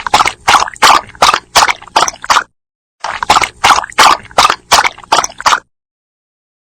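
A dog lapping water with its tongue: two runs of quick, rhythmic wet laps, about three to four a second, with a short pause between them, then it stops about a second before the end.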